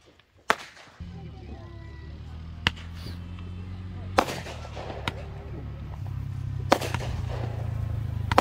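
Firework bangs: about five sharp reports a second or two apart. Under them a low, steady engine hum starts abruptly about a second in and slowly grows louder, like a vehicle idling.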